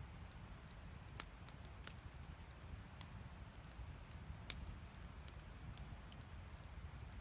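Wood campfire crackling faintly, with scattered sharp pops (the strongest about a second in and midway) over a low steady rumble.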